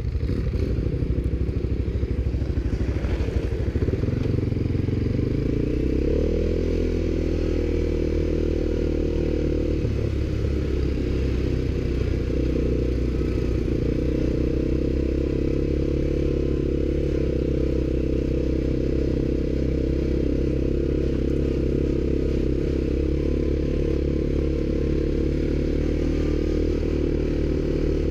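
ATV engine running under way, rising in pitch about five seconds in and then holding a steady speed.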